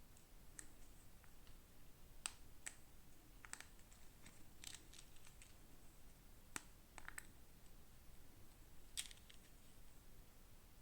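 Faint, irregular clicks and light ticks of small plastic toy pieces and packaging being handled, about eight in all, the sharpest a little over two seconds in, about halfway through, and near the end.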